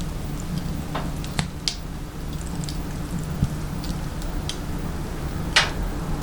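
Firewood crackling and popping as it burns in a wood-burning stove: scattered sharp pops, about a second and a half-second in and the loudest near the end, over a steady low hum.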